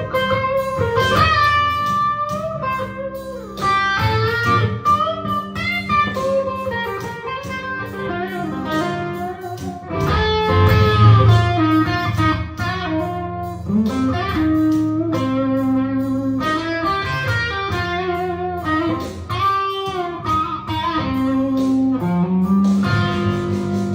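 Electric guitar playing a blues solo, with bent and held notes over low accompanying notes.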